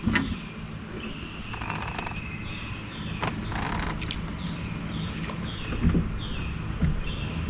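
A bird calling over and over in short falling chirps, about two a second. About three seconds in comes a brief swish as a fishing rod is cast.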